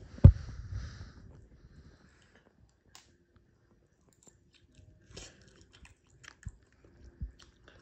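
A person chewing and eating spicy instant noodles with a fork, with small clicks of the fork in the cup. A sharp thump comes just after the start.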